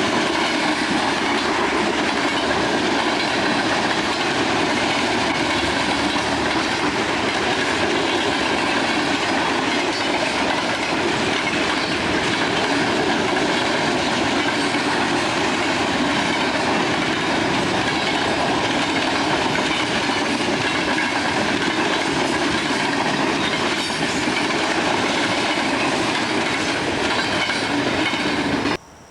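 A train's cars rolling past, a loud steady noise of steel wheels on the rails. It cuts off abruptly right at the end.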